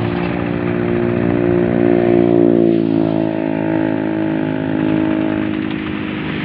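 An engine running steadily, with a slight shift in pitch about three seconds in.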